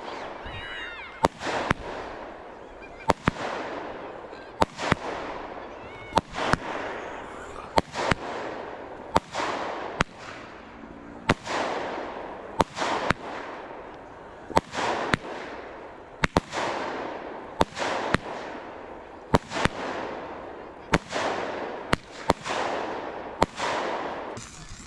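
Fireworks going off in a steady series, a sharp bang about once a second, each followed by a fading noisy tail.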